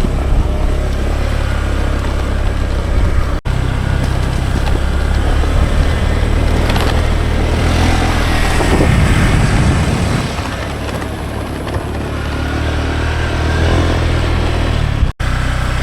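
Motorcycle engine running steadily while riding, with a steady low hum and a rushing haze over it; the sound drops out for an instant twice.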